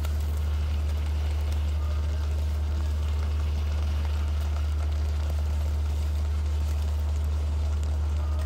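Chicken wings deep-frying in hot oil, a steady sizzling and bubbling with fine crackles, over a constant low hum.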